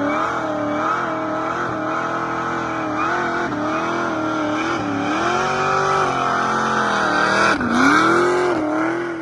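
Cadillac CTS-V's V8 held at high revs during a burnout, its pitch wavering up and down, then dipping sharply and climbing back near the end.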